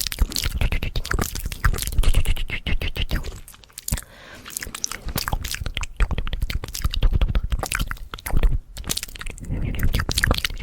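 Fast ASMR mouth sounds made close to the microphone: rapid wet clicks and smacks of lips and tongue, with a short softer pause about four seconds in.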